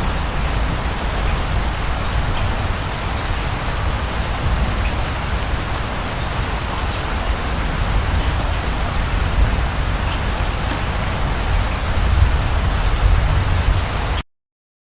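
Steady rain falling on a surface, with scattered drop ticks and a deep low rumble underneath. The sound cuts off suddenly near the end.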